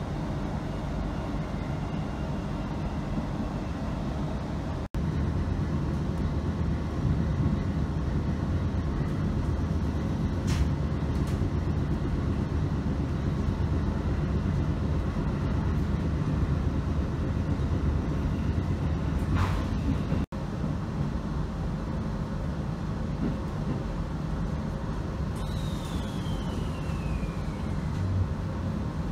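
Interior running noise of a JR 719 series electric train: a steady low rumble of wheels on rail and the running gear. Two brief sharp squeaks or hisses stand out along the way, and near the end comes a high tone falling in pitch. The sound breaks off for a moment twice where the recording is cut.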